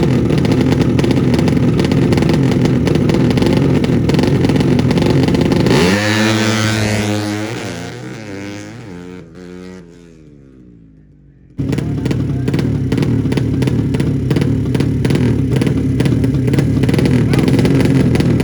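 Drag-racing motorcycle engines running loud and hard. About six seconds in, one engine's note falls in pitch and fades away. Near twelve seconds the loud engine noise cuts back in suddenly.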